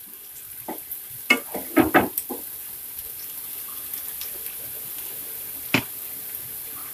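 Chopped onion, dried red chillies and curry leaves sizzling in hot oil in a non-stick frying pan, a steady hiss. A spatula stirring the mix clatters against the pan several times in the first couple of seconds and once more near the end.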